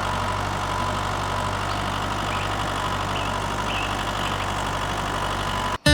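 An engine idling steadily with a low, even hum, with a few faint bird chirps over it. It cuts off suddenly near the end.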